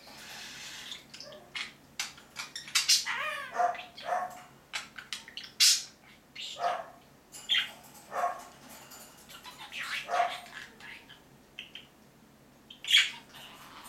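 Budgerigars chirping and chattering: a string of short, sharp calls and squawks coming at irregular intervals, some with quick glides in pitch.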